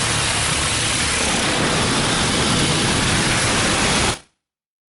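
Steady, loud hiss of car-wash water spray drumming on the car's body and windows, heard from inside the cabin, cutting off abruptly about four seconds in.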